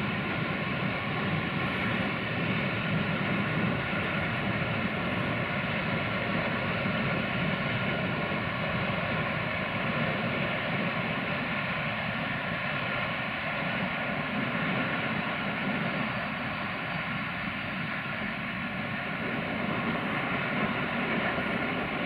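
Freight train hauled by an electric locomotive running past at a distance. A steady rumbling drone of wheels and wagons with faint held tones above it, unchanging throughout.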